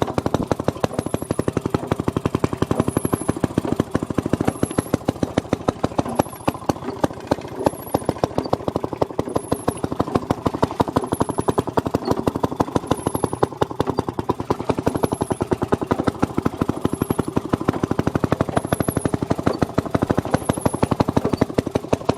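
Maytag Model 92 single-cylinder two-stroke engine running steadily with a rapid, even exhaust beat as it drives the wringer washer. A faint high chirp repeats a little more than once a second over it.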